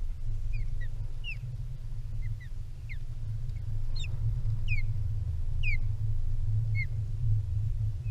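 Osprey giving a series of short, high, falling whistled calls, about one a second and sometimes in quick pairs, over a steady low rumble.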